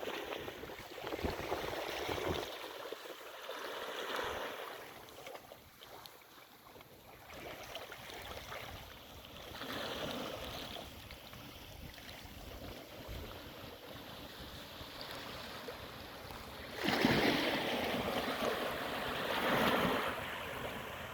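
Sea waves washing up on a beach, the rush of water swelling and falling back every few seconds, loudest near the end.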